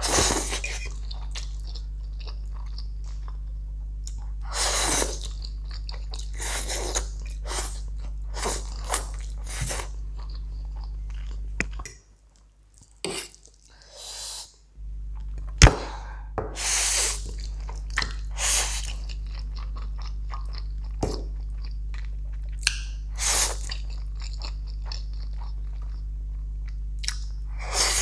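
Close-miked chewing and slurping of jajangmyeon-style instant noodles, with wet mouth sounds every second or two over a steady low hum. The hum drops out briefly about halfway through, and there is one sharp click just after.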